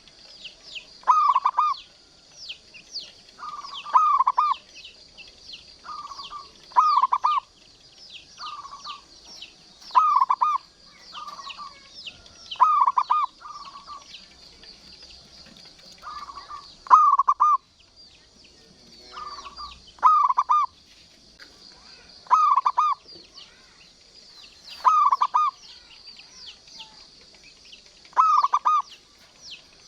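Zebra dove (local perkutut) cooing in short rolling phrases, one every one to three seconds, loud phrases alternating with softer ones. A steady high-pitched chirring runs underneath.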